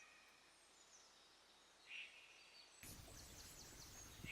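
Faint bird chirps, a few short high calls, over near silence. About three seconds in, a faint steady hiss sets in beneath them.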